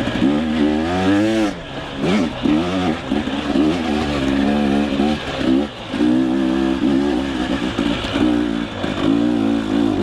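Two-stroke enduro dirt bike engine revving up and down under riding load, its pitch rising and falling repeatedly, with brief drops in level about one and a half and five and a half seconds in.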